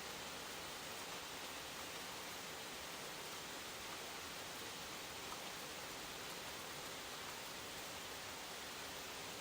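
Rain falling steadily: an even hiss with no distinct drops or thunder.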